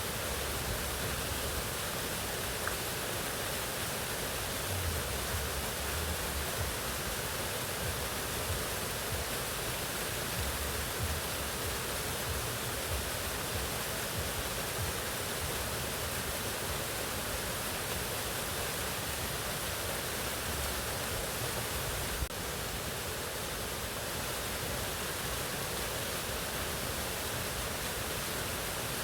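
Mountain waterfall running steadily: an even, unbroken rush of falling water, with a brief dip in level about three-quarters of the way through.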